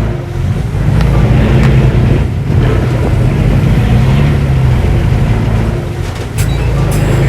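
Heavy earthmoving machine's diesel engine working under load, its pitch rising and falling in slow swells as the throttle changes. A couple of sharp metallic clanks come near the end.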